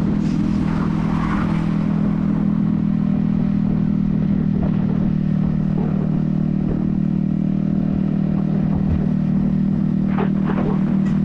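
Yamaha XSR155's 155 cc single-cylinder engine running at a steady cruising speed, its pitch unchanging, with wind noise on the helmet microphone. A few brief rattles or clicks near the end.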